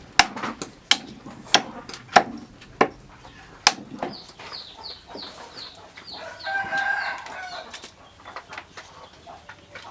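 Sharp knocks about every half second for the first few seconds, then a quick run of high falling chirps from a small bird, then a chicken calling for about a second and a half near the middle.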